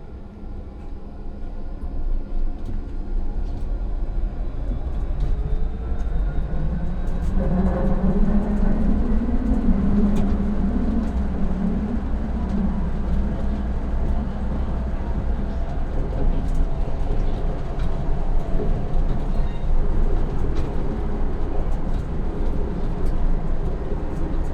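Electric tram running, heard from the driver's cab: it gets louder as the tram picks up speed, the motors' whine rising in pitch, then it rolls on steadily with a low rumble and scattered clicks from wheels on rails.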